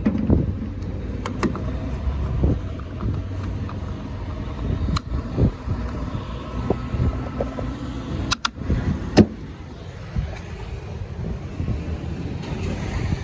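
Steady low rumble of a car heard from inside, with a few sharp clicks and knocks scattered through it; the loudest click comes a little after nine seconds in.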